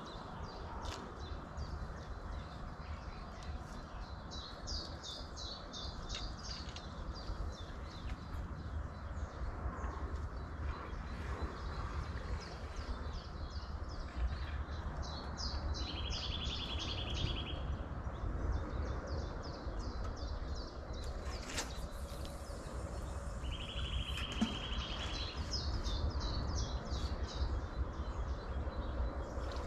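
Songbirds singing: about three runs of quick, high repeated notes and two short buzzy trills, over a steady low rumble. A single sharp click sounds about two-thirds of the way through.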